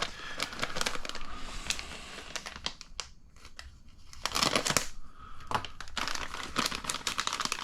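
Plastic kit parts bag crinkling and rustling as it is handled, with light clicks throughout; it goes quiet for about a second midway, then picks up again louder.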